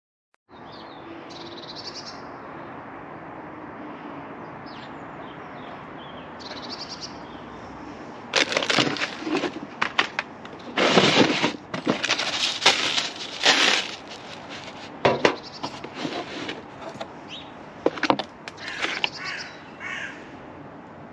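Harsh, rasping calls of a crow-family bird in irregular bursts from about eight seconds in, over a steady outdoor hiss, with a few faint high chirps earlier.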